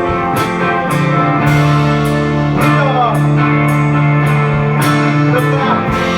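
A live indie rock band playing: electric guitars ringing out sustained chords over bass, with the drums' cymbals hitting on a steady beat about twice a second. A few sliding guitar notes come in about halfway through.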